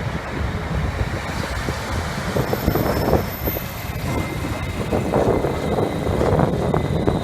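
Train at a station platform: a steady loud rumble with irregular clatter, and a faint high whine that grows stronger near the end.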